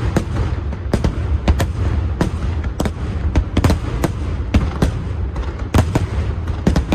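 Fireworks display: a rapid, uneven string of sharp bangs and cracks from bursting aerial shells, about two to three a second, over a continuous deep rumble of launches and booms.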